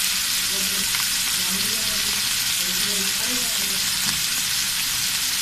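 Chicken pieces frying in ghee in a pan, a steady sizzle.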